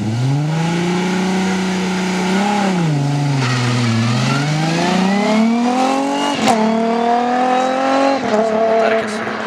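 Volkswagen VR6 engine revving. Its note rises sharply at the start and holds, dips about three to four seconds in, then climbs steadily for about four seconds, with a sharp crack about six and a half seconds in. It falls back to a steady note near the end.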